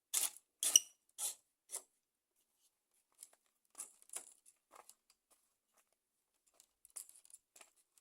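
Dry scraping and rustling of wooden sticks being worked into a woven stick fence. Four quick strokes come in the first two seconds, then fainter scattered ones.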